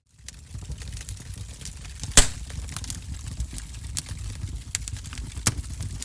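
Wood fire crackling in a fireplace, fading in just after a brief silence at the start: a steady low flame noise under frequent small snaps, with a sharp loud pop about two seconds in and another near the end.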